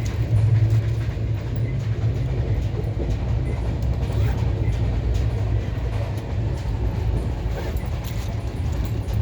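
Moving train running with a steady low rumble and faint rattling clicks.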